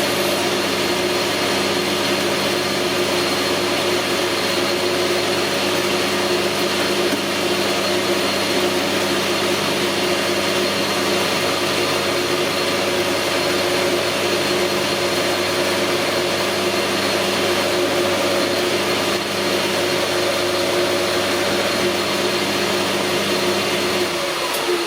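Metal lathe running under power with a steady hum and whine, then winding down near the end as the spindle coasts to a stop.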